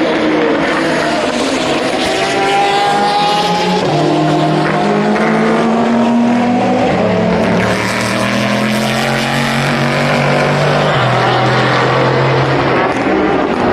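Several endurance race cars running on track together, their engines overlapping. The engine notes glide and step up and down in pitch as the cars shift gears and pass.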